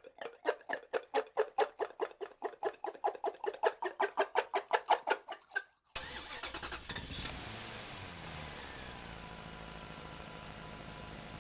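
Small engine of a DIY mini tractor being cranked, with about four or five even pulses a second for about six seconds. It then switches abruptly to a steady run that settles to an idle.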